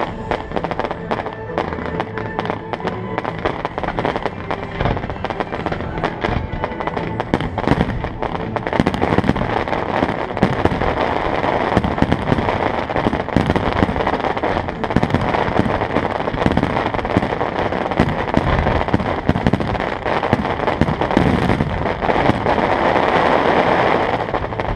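Fireworks going off in rapid succession, a dense stream of bangs and crackles that grows louder and denser from about eight seconds in, over accompanying show music.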